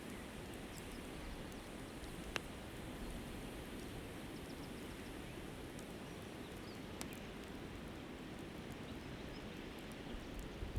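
Steady rush of a flowing river with a few sharp pops from a campfire, the clearest about two and a half seconds in.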